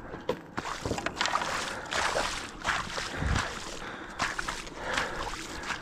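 Sloshing footsteps wading through shallow water and mud, a string of irregular splashy steps.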